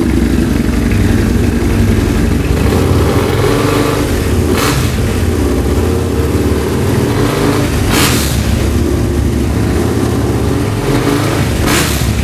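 Husqvarna Nuda 900's parallel-twin engine running, blipped a few times: about four and a half seconds in, about eight seconds in and near the end.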